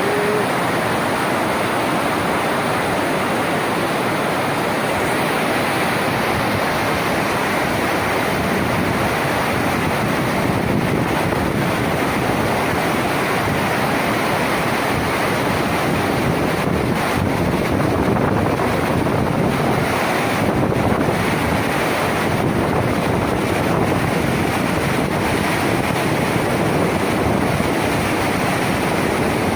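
Floodwater rushing in a steady, unbroken flow after heavy rain.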